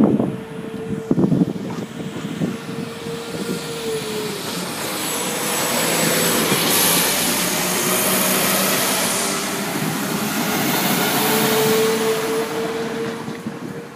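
A train passing over a level crossing. Its rumble builds, stays loud through the middle and fades near the end. A steady tone is heard in the first few seconds and comes back late on.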